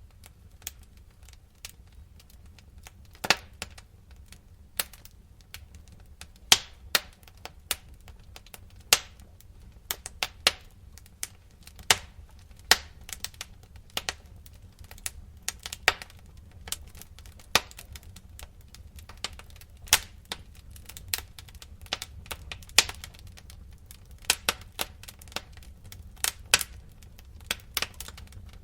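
Wood fire crackling in a fireplace: irregular sharp pops and snaps, a few each second, some much louder than others, over a steady low rumble.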